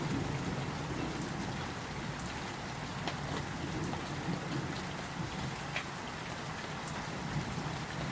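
Steady summer thunderstorm rain, a constant hiss of rainfall with scattered individual drop ticks.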